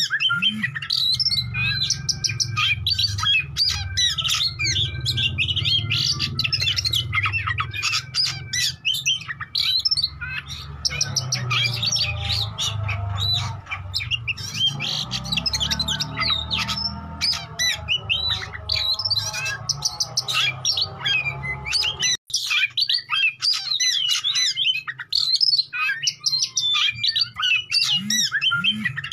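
Oriental magpie-robin (kacer) in full song: a fast, unbroken stream of varied chirps, whistles and harsh notes, with a low background rumble that stops about 22 seconds in.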